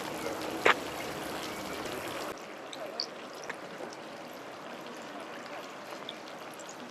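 Steady rushing outdoor background noise with a single sharp click about a second in; the background drops abruptly about two seconds in, then a few faint high chirps.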